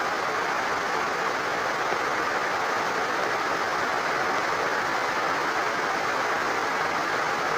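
Rain falling steadily together with overflowing water: an even, unbroken hiss with no separate drops or knocks standing out.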